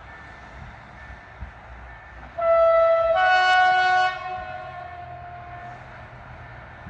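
Freight locomotive horn sounding one blast of about a second and a half: a single tone first, joined partway by a second, higher tone, then stopping and trailing off in a short echo. A low rumble runs underneath.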